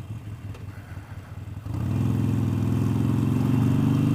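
Motorcycle engine running low and quiet, then about two seconds in it opens up and pulls harder, its note jumping louder and holding steady.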